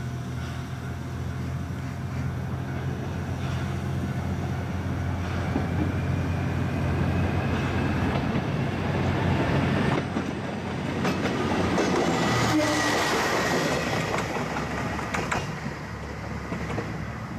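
Train cars rolling slowly through the station over a steady low rumble. From about halfway in, the wheels click over rail joints, with a thin, slowly rising wheel squeal.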